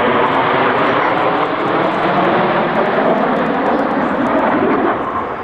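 A formation of BAE Hawk T1 jets flying past, a loud, steady jet-engine noise.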